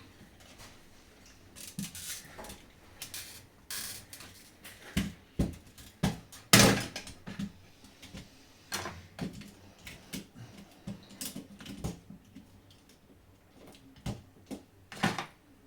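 Scattered clicks and knocks from handling and working on a PS5 DualSense controller's plastic casing, with one louder knock about six and a half seconds in.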